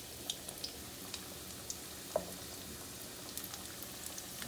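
Egg rolls frying in hot oil: a steady sizzle with scattered small pops and crackles, one sharper pop a little past halfway.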